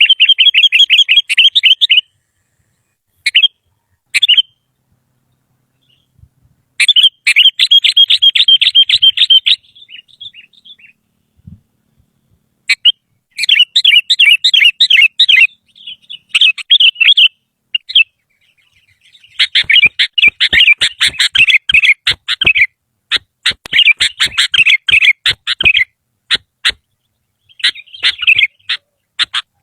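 Sooty-headed bulbul (kutilang) singing in bursts of fast, chattering notes, each burst a second or three long with short pauses between. Sharp clicks come among the notes in the second half.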